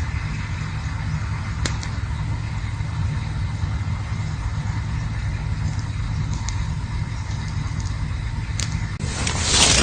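Campfire burning with a steady low rumble and hiss, broken by a few sharp crackling pops. A louder rushing hiss swells in the last second.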